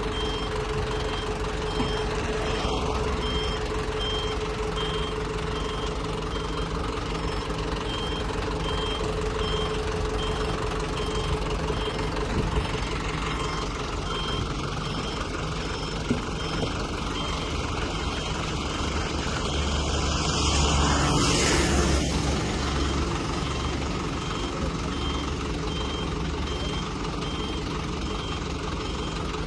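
A vehicle's reversing alarm beeping at an even pace, about once a second, over a heavy truck engine running. Around two-thirds of the way through, a louder rush of noise swells and fades.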